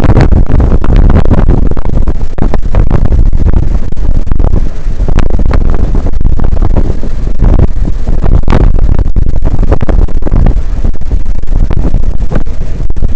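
Strong wind buffeting the microphone on a moving ship's open deck: loud, gusty rumble with irregular blasts, covering the ship's own running noise.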